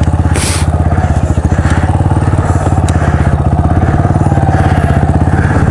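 Dual-sport motorcycle engine running steadily at low revs with an even pulse, while the bike is manoeuvred backward to turn around on packed snow. About half a second in there is a brief scuffing hiss.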